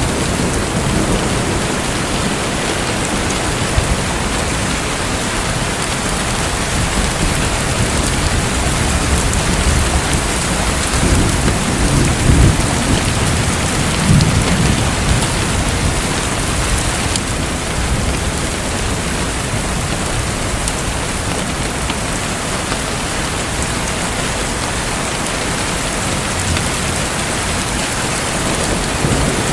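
Steady rain-like rush and patter of water, with a few deep rumbling swells about eleven to fifteen seconds in.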